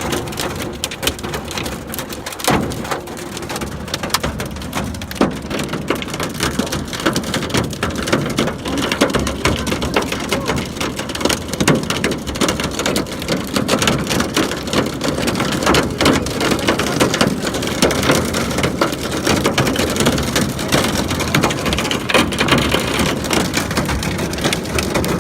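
Heavy rain falling and striking a surface: a steady, dense hiss filled with countless small drop impacts.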